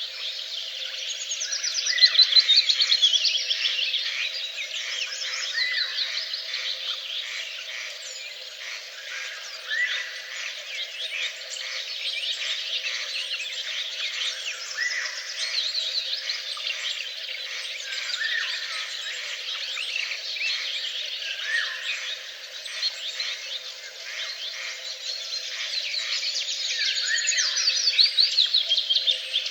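Chorus of songbirds singing, many overlapping quick chirps and rapid trills, with louder trilling about two seconds in and again near the end, over a faint steady hum.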